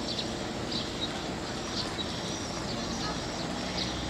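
Birds chirping, short high calls repeating every half second or so over a steady background hiss.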